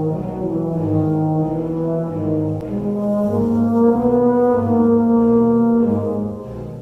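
Live symphony orchestra playing, with the brass to the fore in slow, sustained chords that change every second or two; the music eases briefly near the end.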